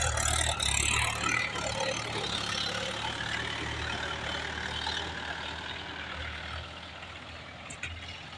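Mahindra Bhoomiputra 415 tractor's diesel engine running. It is louder with extra rushing noise for the first couple of seconds, then settles to a steadier, quieter idle.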